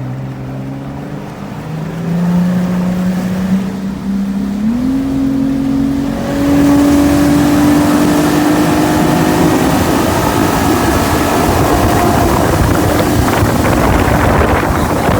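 Bass boat's outboard motor opened up hard, its pitch climbing in steps through the first five seconds or so as it revs up. It then runs at high speed, with wind and water rushing louder over it.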